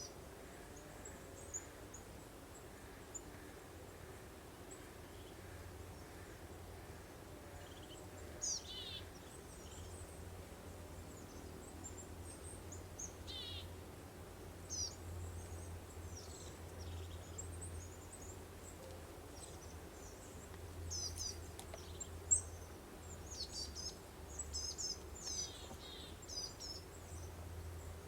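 Songbirds chirping and trilling in short high phrases, few at first and more often in the last third, over a faint steady breeze-like rush and a low hum. A single sharp click about 22 seconds in.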